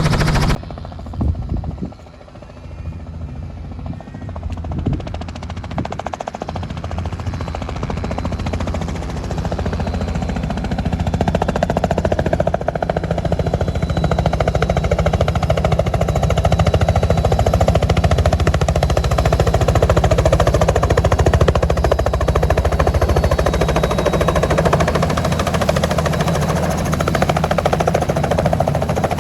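Helicopter engine and rotor running, with a faint steady high whine. After a sudden cut about half a second in it is quieter, then builds up over about ten seconds and holds steady.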